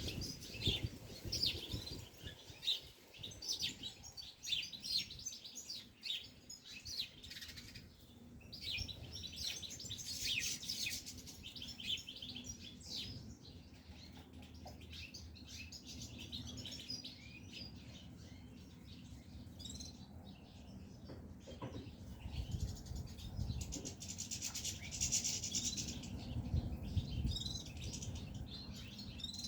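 European goldfinches chirping and twittering: many short, high calls follow one another throughout. Low rustling and knocking noise joins in over the last several seconds.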